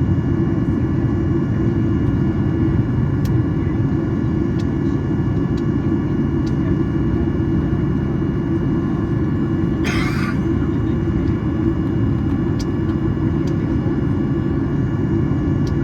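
Steady low cabin rumble aboard a Boeing 737-800 standing for de-icing, with a brief hiss about ten seconds in.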